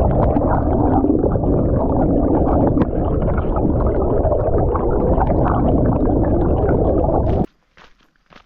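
Rushing water, a stream or waterfall heard close, giving a steady low churning and gurgling noise that cuts off abruptly near the end.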